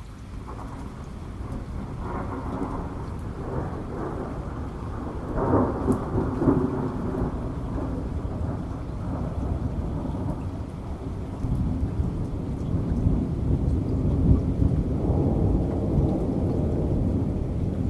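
Thunder rolling during heavy rain: a long, deep rumble that builds from the start and swells loudest about a third of the way through, then swells again later on, over a steady wash of rain.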